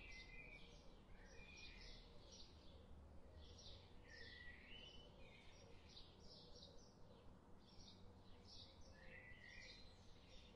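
Faint bird chirping: many short, quick chirps repeating throughout, over a low steady hum.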